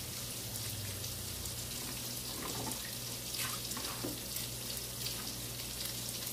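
Salmon croquettes frying in an oil-filled skillet: a steady sizzle, with a few soft knocks as wet cut potatoes are handled on a plate.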